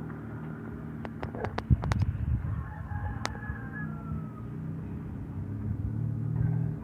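A drawn-out animal call lasting about a second, a few seconds in, after a handful of sharp clicks, over a steady low hum.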